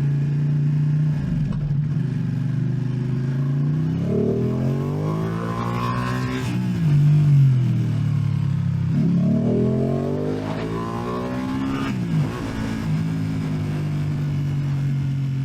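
A motorcycle engine running, then twice accelerating hard: the pitch climbs steadily and drops sharply at each gear change, a few seconds in and again near two-thirds through, between spells of steady cruising.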